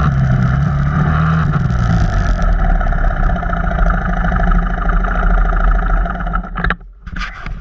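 Off-road vehicle engine running steadily. It drops away sharply about six and a half seconds in, followed by a few short knocks.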